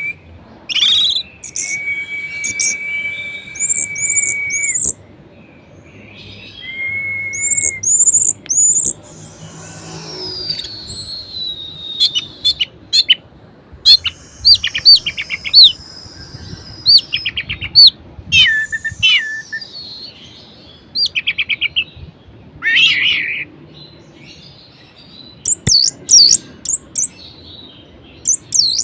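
Orange-headed thrush (anis merah) singing a varied song. It gives long level whistles, quick slurred notes and rapid trills in separate phrases with short pauses between them.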